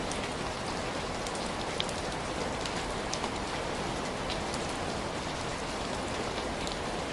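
Steady rain falling, a dense even hiss with scattered sharp ticks of drops, or possibly crackles, here and there.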